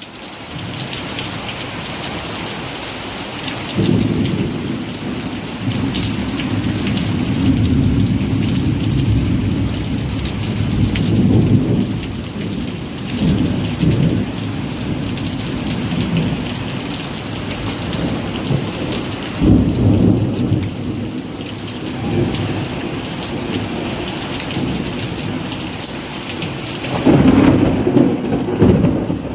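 Steady rain hissing, with low rolling thunder that comes in a few seconds in and swells and fades in waves.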